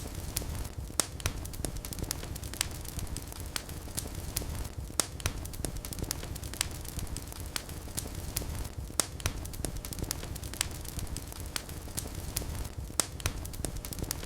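Wood fire in a fireplace, crackling and popping at irregular intervals over a steady low rumble of burning.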